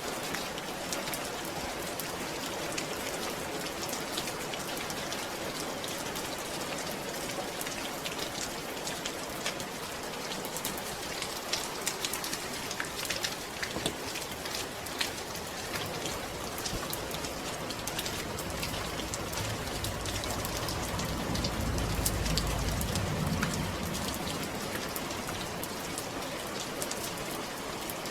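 Steady rainfall, with many small drops pattering on a surface. A low rumble swells and fades about two-thirds of the way through.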